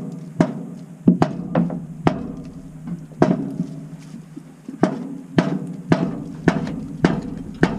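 A wooden board knocking an ABS drain-pipe fitting into place: sharp knocks about twice a second, each with a brief ringing, pausing for about a second midway.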